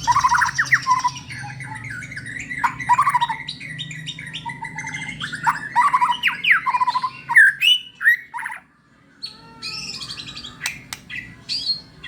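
White-rumped shama (murai batu) in full song: a long run of varied whistles and fast chattering phrases, with a short pause about nine seconds in.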